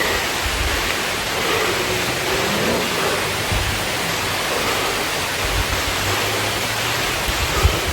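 Steady hiss of rain falling, with irregular low rumbles of wind buffeting the microphone.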